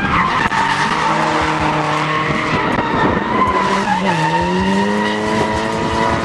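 A car drifting: tires squealing steadily while the engine is held at high revs, the revs dipping about four seconds in and then climbing again.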